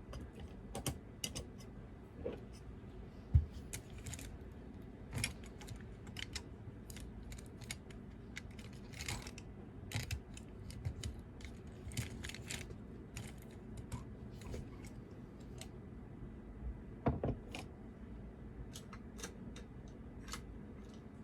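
Typing on a computer keyboard: irregular runs of keystrokes with short pauses between them, and one louder low knock about three seconds in.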